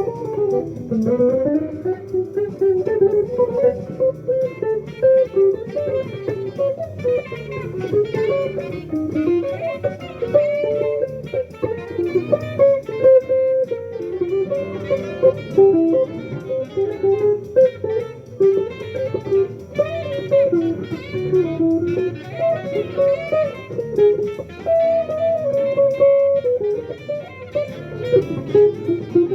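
Jazz guitar playing a quick, winding single-note melodic line over lower accompanying notes.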